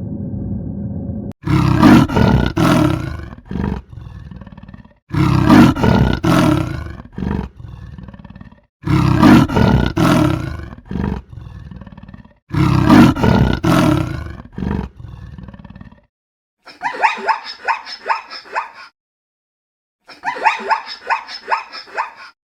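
A lion roaring: the same loud roar repeats four times, about every three and a half seconds. It is followed by two shorter bursts of rapid, higher-pitched calls from another animal.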